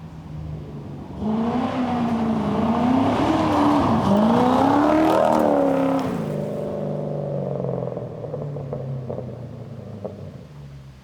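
A car engine revving, its pitch climbing and dropping several times, then easing off and fading away near the end.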